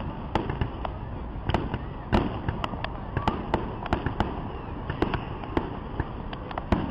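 Fireworks display: a rapid, irregular string of sharp bangs from bursting aerial shells, about two or three a second, over steady background noise.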